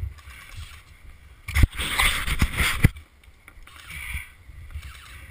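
Clothing and gear rustling and knocking right against the body-worn camera's microphone, in a burst of about a second and a half starting about a second and a half in, over low wind rumble on the microphone.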